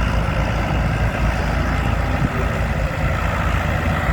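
Ford County timber winch tractor's diesel engine running steadily at a low, even speed.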